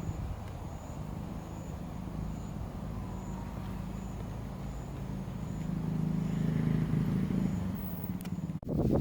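A vehicle engine running with a steady low hum, growing louder from about six seconds in, then cutting off abruptly near the end.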